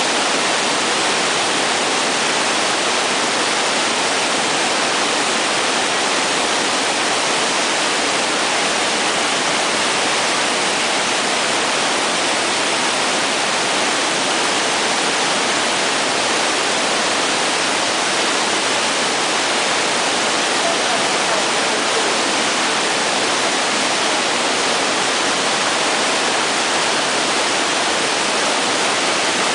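River in spate after heavy rain: floodwater rushing in a loud, steady, unbroken wash of noise.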